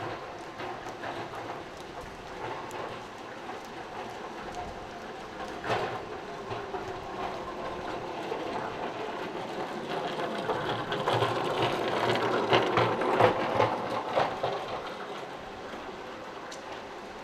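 Waterfront ambience with a rhythmic mechanical clatter that builds to its loudest a little past the middle and then fades away.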